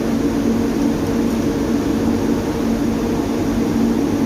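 EC fan running at full speed: a steady rush of air with a constant hum.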